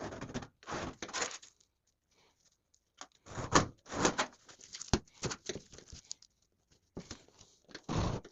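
A hand scribe scratching lines into oiled sheet steel, in a series of short scraping strokes with pauses between them, and one sharp click about five seconds in.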